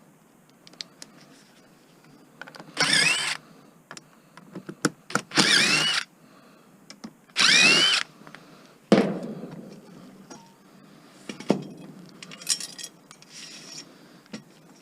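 Cordless drill/driver run in three short bursts, each a whine that rises in pitch as the motor spins up, as screws are driven out while dismantling a scrap appliance. A sharp metallic knock follows, then a few lighter clicks of parts being handled.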